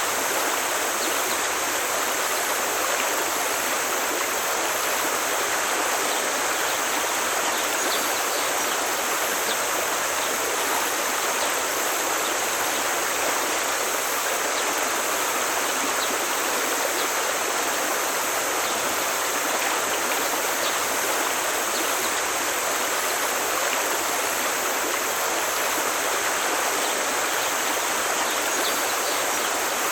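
Forest brook flowing steadily, an even, unbroken wash of running water.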